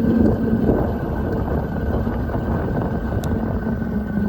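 Wind rushing over the microphone while riding an electric dual-sport motorcycle in eco mode, with a steady thin whine from its electric drive.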